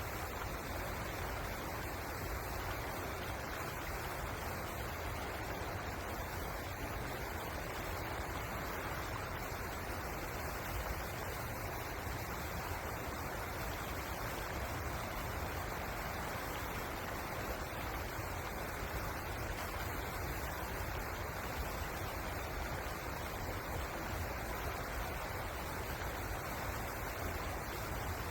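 Pozer River flowing: a steady, unbroken rush of water with a low rumble beneath it.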